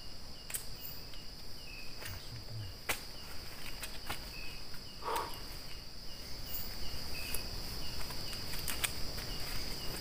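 Night crickets and insects: a steady high trill with short chirps repeating over it, a few faint scattered clicks, and one brief lower call about five seconds in.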